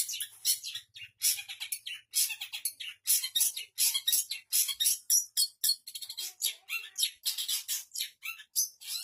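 Long-tailed shrike singing a fast, unbroken run of short high chirps and scratchy notes, its song filled with imitations of other birds.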